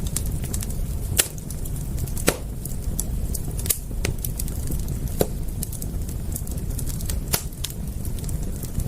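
Wood fire crackling, with irregular sharp pops and small ticks over a steady low rumble.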